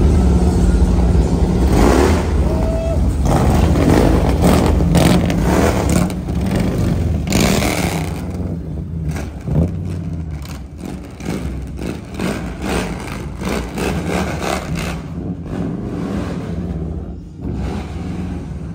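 Car engine running loudly with revving, heard up close for the first six seconds or so, then growing gradually quieter.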